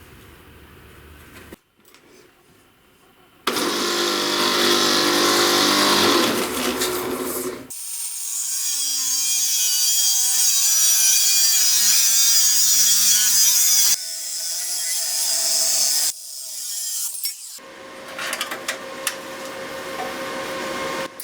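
Power tool grinding or sanding in several short edited stretches: a loud, hissy abrasive sound that starts and stops abruptly with brief quiet gaps between the cuts.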